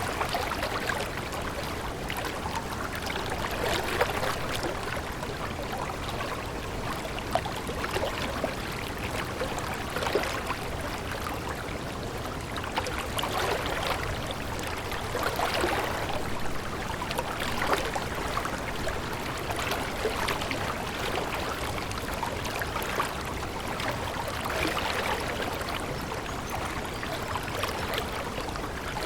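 Running water of a stream: a steady rush with small splashes and crackles, swelling a little every few seconds.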